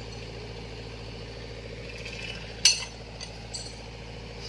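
An engine idling steadily, with a sharp metallic clink about two and a half seconds in and two lighter clinks soon after.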